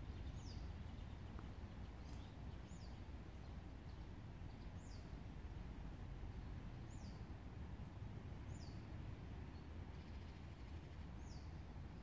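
A bird repeating a single thin, high call note that falls in pitch, six times at roughly two-second intervals, over a steady low rumble of background noise.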